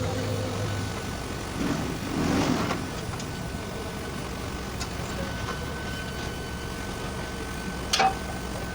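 Steady mechanical rumble with a louder noisy swell about two seconds in and a sharp knock near the end.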